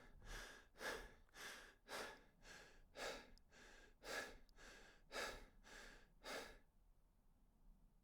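A person breathing hard in a quick, even rhythm, about two faint breaths a second, which stop about six and a half seconds in.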